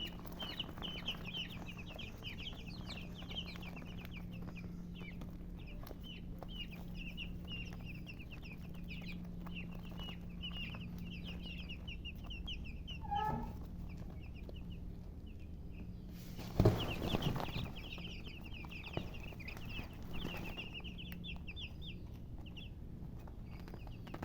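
A brood of baby chicks peeping continuously in rapid short high chirps, with a single lower call from the hen about halfway through. About two-thirds of the way in, a sudden loud bump cuts through.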